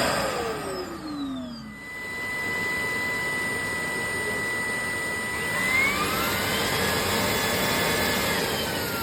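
Shark cordless vacuum motor running. In the first two seconds its whine glides down and fades. A steady whine then sets in, rises in pitch about six seconds in, and falls again near the end.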